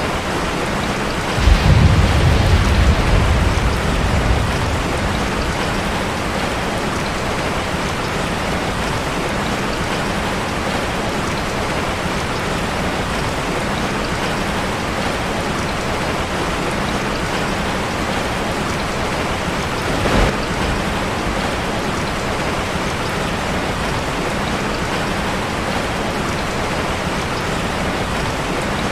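Steady rain drumming on a metal roof. About a second and a half in, a sudden low rumble of thunder starts and fades over about three seconds. A single short sharp crack comes near twenty seconds in.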